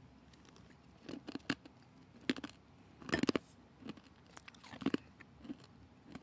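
Close-miked chewing of crunchy green herbal supplement pellets: a few irregular crunches, the loudest about three seconds in.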